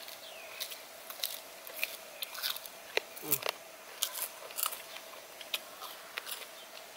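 Close-miked chewing and crunching of crispy fried food, in many short, irregular crunches.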